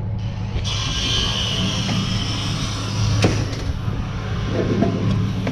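A vehicle engine running steadily, with a single sharp knock about three seconds in.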